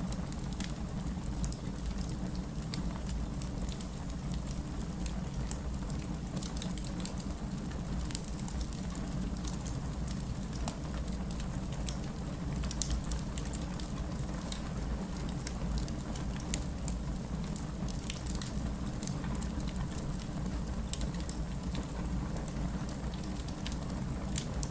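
Wood fire burning in a fireplace: a steady low rumble of flames with frequent sharp crackles and pops from the logs, a few of them louder than the rest.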